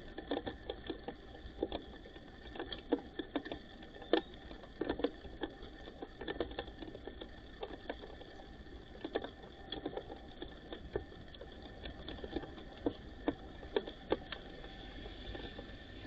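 Irregular light tapping and clicking, several taps a second, of white-crowned sparrows pecking at seed, over a faint steady hum.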